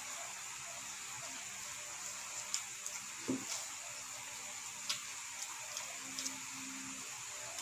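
Eating sounds: a few faint wet clicks and smacks of chewing, a handful in all, over a steady hiss.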